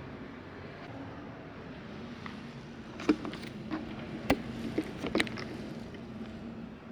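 Steady background hum, with a cluster of sharp knocks and clicks from about three to five seconds in.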